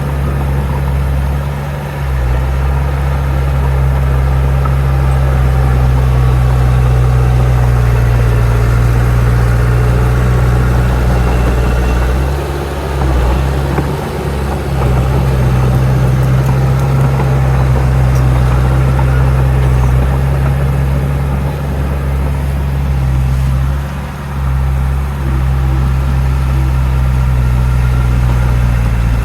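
Heavy diesel engine of earthmoving machinery running steadily with a deep, constant drone. Its loudness dips briefly a few times.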